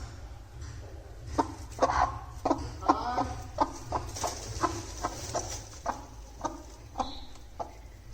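Broody aseel hen clucking: a string of short, sharp clucks, about one or two a second, thickest in the middle.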